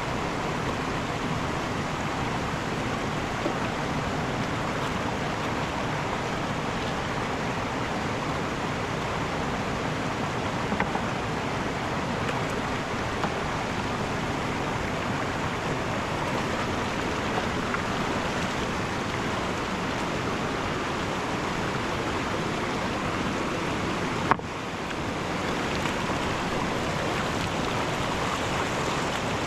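Mountain river water rushing steadily, an even wash of flowing water, with a few faint clicks. The sound breaks off for an instant near the end and resumes.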